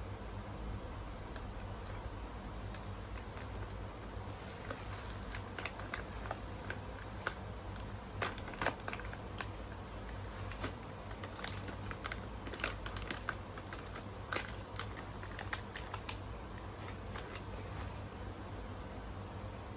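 Eating sounds: irregular light clicks and crackles from food, utensils and packaging, over a steady low hum.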